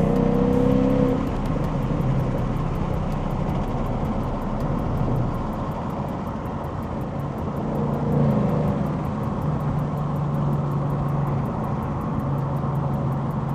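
Car engine running while driving, with road noise. The engine note drops about a second in and rises briefly around eight seconds in.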